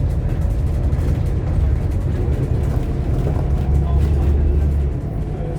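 Scania K230UB OmniLink bus's five-cylinder diesel engine running, heard from inside the cabin as a steady deep drone. It grows louder shortly before four seconds in, then drops back about five seconds in.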